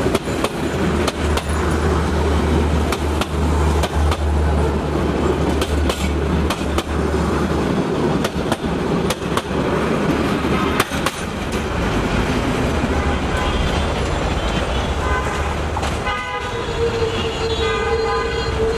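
Passenger carriages of a Bangladesh Railway train rolling past close by: a loud, steady rumble with frequent clacks of steel wheels over the rail joints. Near the end a horn sounds and is held.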